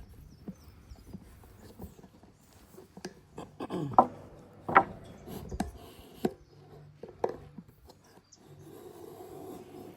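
A wooden board being handled and flipped over: scattered knocks and scrapes of lumber, the two loudest about four and five seconds in.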